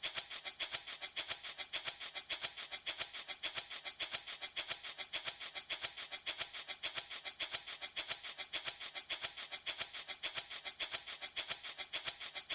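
Handmade baby rattle shaken continuously in a quick, even rhythm of several shakes a second, giving a bright, crisp rattle of small beads or pellets.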